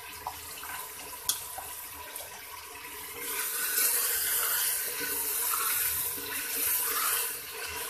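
Mutton, tomatoes and spices sizzling in hot oil in a pressure-cooker pot, the sizzle growing louder about three seconds in as a wooden spatula stirs them. A single light knock about a second in.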